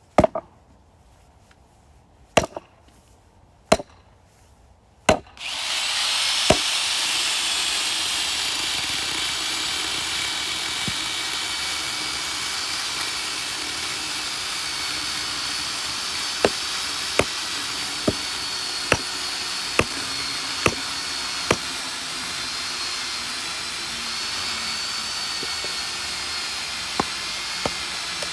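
Blows of splitting firewood: four sharp chops in the first five seconds. Then a steady, loud, high-pitched hiss starts suddenly and runs on, with a quick run of knocks, a little under a second apart, in its middle.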